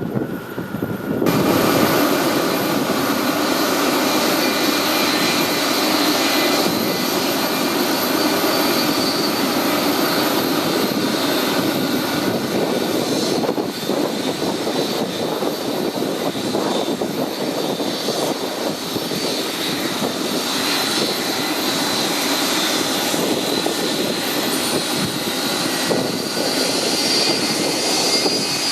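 Boeing 757 jet engines running loudly with a steady high whine over the rush of the engines. The sound jumps up suddenly about a second in, and the whine shifts slightly in pitch near the end.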